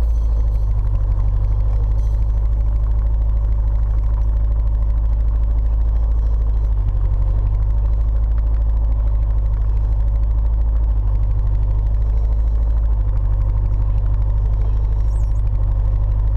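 Turbocharged Nissan 240SX's KA24DE-T inline-four engine idling steadily while it draws Seafoam in through a long vacuum hose.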